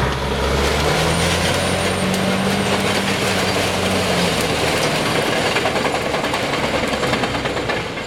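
Caterpillar D6R bulldozer's diesel engine running hard, its note rising about a second in and easing back about four seconds in, over a dense mechanical clatter.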